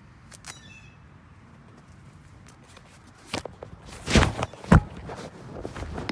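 A few knocks and thumps, the two loudest about four and five seconds in, with a short chirp near the start.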